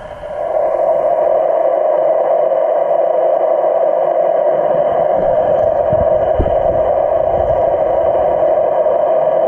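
Steady, loud, muffled rushing noise that swells up within the first half second, with a few dull low knocks near the middle.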